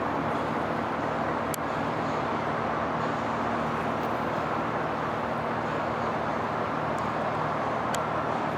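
Steady road traffic noise with a low, even hum underneath and two faint short ticks, about a second and a half in and near the end.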